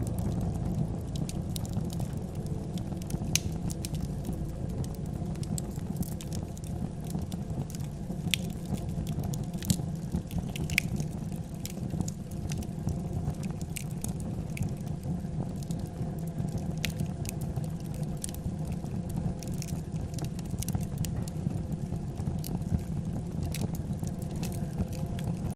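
Wood fire crackling: a steady low rumble with scattered sharp pops and snaps.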